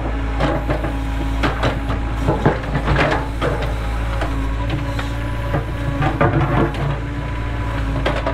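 Cat 307 excavator's diesel engine running steadily, with two spells of sharp knocking and clatter over it, one near the start and one about five to seven seconds in.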